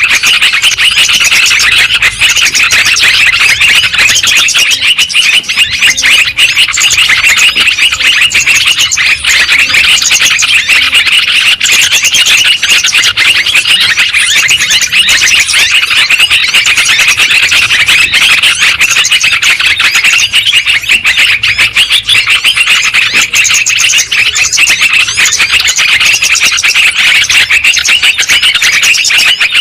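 Yellow-vented bulbuls (trucuk) calling noisily, a loud, dense, unbroken flurry of overlapping chattering chirps.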